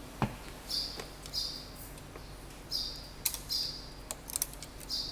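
A small bird chirping repeatedly, short high chirps about once a second, with a few sharp clicks and knocks from handling the engine while its oil is checked, most of them between three and four and a half seconds in.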